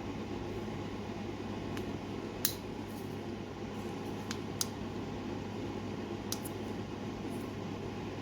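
A few sharp clicks and scrapes of a hand tool working at a hardened crankcase oil seal on a 50cc two-stroke engine case, the loudest about two and a half seconds in, over a steady background hum. The seal is so hard it will not simply flick out: it is worn out.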